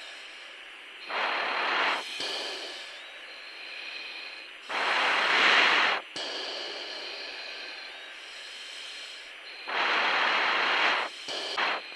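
Breaths through a fighter pilot's oxygen mask microphone, heard over the cockpit intercom: three loud, hissing breaths about four seconds apart and a short one near the end, each starting and stopping abruptly, over a steady cockpit hiss.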